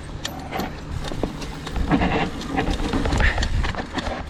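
Mountain bike riding down a rough dirt trail: irregular clicks and knocks of the bike rattling over bumps and rocks, over a steady low rumble of wind and tyres.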